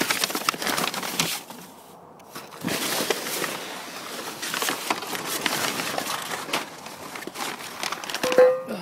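Rustling and crinkling of parts packaging with small handling clicks and knocks, from parts being unpacked and handled, and a short squeak near the end.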